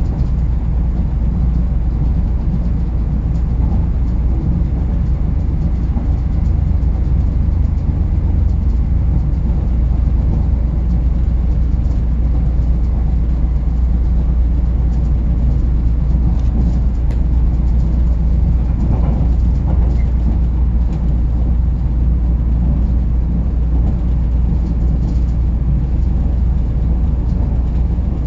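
Korail Nuriro electric multiple unit train running along the track, a steady low rumble.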